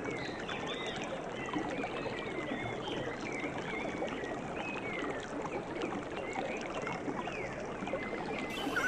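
Steady running water, with many short, high bird chirps over it.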